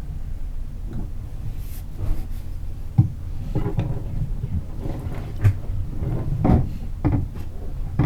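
Irregular knocks and clunks of hand work, roughly eight spread unevenly over the stretch and the sharpest about three seconds in, over a steady low hum.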